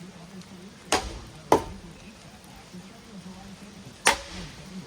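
Three sharp clanks from a running Hampton Bay Waterton ceiling fan being struck, each with a short ring: two about half a second apart near the start, and a loud one near the end. A low steady hum runs underneath.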